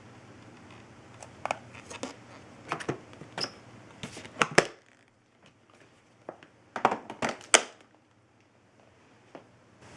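Handling noise: two runs of sharp clicks, knocks and crinkling rustles, the first about a second in and the second past the middle, with no motor running.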